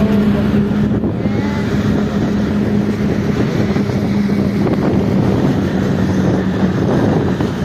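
Bus running at speed: a steady engine drone under loud road and wind noise, the drone fading out near the end.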